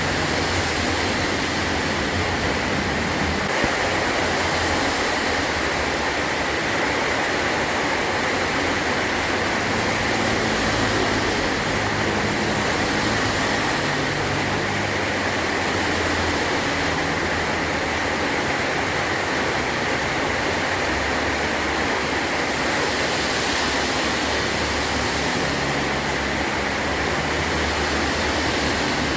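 Heavy rain falling steadily on a metal tin roof, an even, unbroken hiss of rain.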